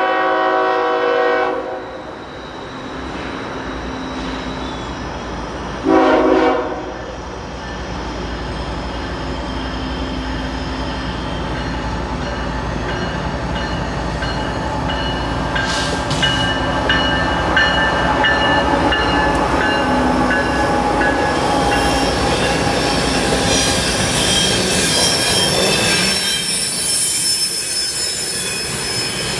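CSX diesel freight locomotive's air horn sounding a long blast, then a short blast about six seconds in. The train then approaches with a growing low engine rumble. From about halfway on, steel wheels squeal and rail noise rises as the cars roll past close by.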